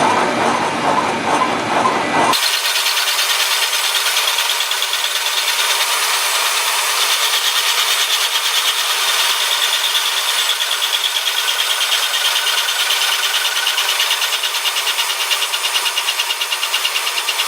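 Milling machine taking a skimming cut across a metal vise body: steady cutting noise with a fast, even flutter from the cutter's teeth. About two seconds in the sound changes abruptly, losing all its bass and going thinner and hissier.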